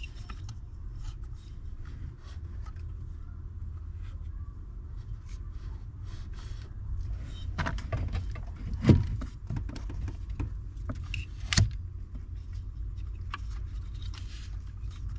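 Scattered clicks and knocks of parts and tools being handled while working on a car's steering column, with the loudest knock about nine seconds in and another about two and a half seconds later, over a steady low hum.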